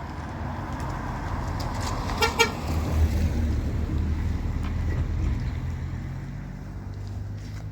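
A motor vehicle approaching and passing, its engine rumble swelling and then fading, with two short horn toots a little over two seconds in.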